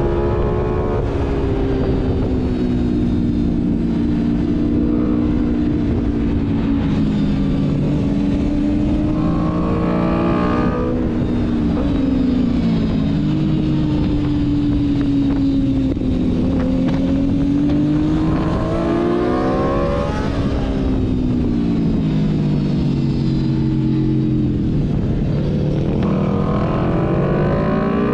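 Sport motorcycle engine on a fast track lap, heard from onboard: the revs climb in long rising sweeps through the gears and drop back in stepped falls as the bike slows for corners, over a constant rush of wind.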